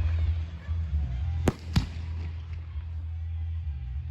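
Aerial fireworks bursting: two sharp bangs about a second and a half in, a fraction of a second apart, followed by a faint crackle, over a steady low rumble.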